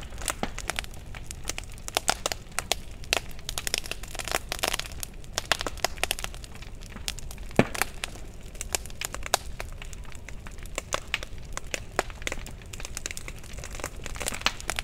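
Wood fire crackling in a fireplace: irregular snaps and pops over a low hiss, with one louder pop about halfway through.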